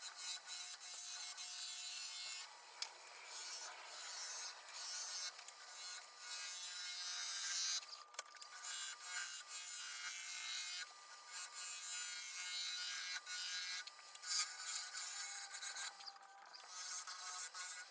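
Cottonwood turning on a wood lathe as a tool works the spinning blank, a hissing scrape in passes of a few seconds with short breaks between them. A faint steady hum from the lathe runs underneath.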